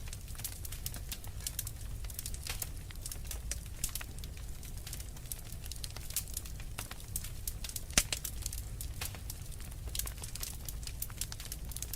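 Fire crackling in a fireplace: frequent sharp pops and snaps over a steady low rumble, with one louder pop about eight seconds in.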